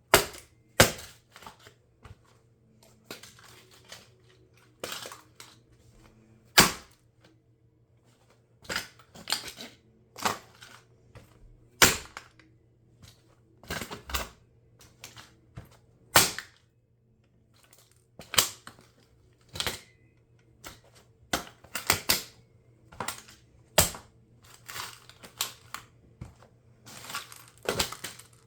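Plastic of a toy RC car cracking and snapping under high heels: sharp cracks at irregular intervals, a few much louder than the rest, over a faint steady hum.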